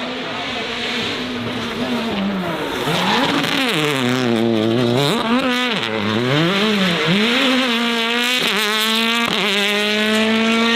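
Race car engine being driven hard: the revs swing up and down several times, then two quick gear changes near the end, each followed by a steady climb in revs under acceleration.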